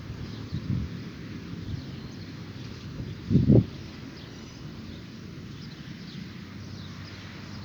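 Outdoor dawn ambience: wind rumbling on the microphone, with one louder gust about three and a half seconds in, and faint distant bird calls.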